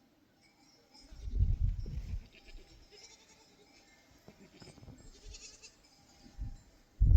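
Sheep bleating in a grazing flock, mixed with low rumbling noise that swells about a second in and again near the end.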